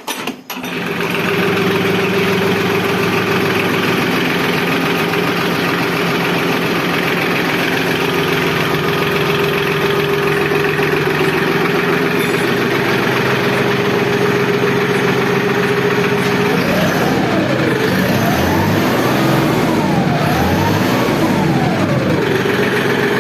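Massey Ferguson 6026 compact tractor's diesel engine starting up and running steadily. Near the end it is revved up and let back down three times in a row.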